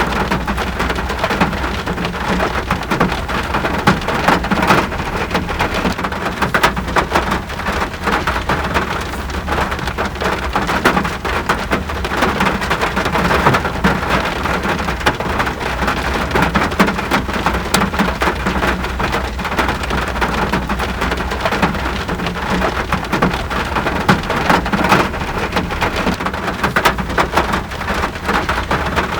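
Steady rain falling, a dense, even hiss of many close drop hits with no let-up.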